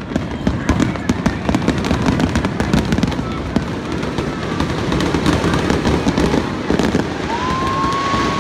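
Aerial fireworks bursting in quick succession: a dense run of crackles and pops over a continuous low rumble of booms. Near the end a whistling shell climbs, its whistle rising briefly and then holding steady.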